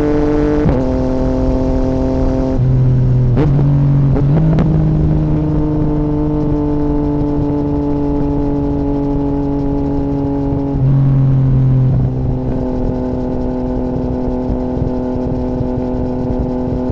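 2017 Yamaha MT-09's 847 cc inline-three engine running through an Akrapovic Racing Line carbon full exhaust with the dB killer removed, loud, at fairly steady engine speeds while riding, its pitch shifting in steps a few times as the revs change.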